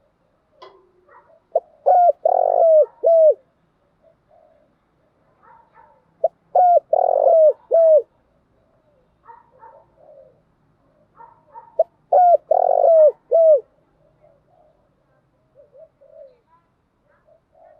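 Spotted dove cooing its decoy call: three phrases about five seconds apart, each a quick run of short falling coos around a longer, fuller note. Faint small chirps fill the gaps between phrases.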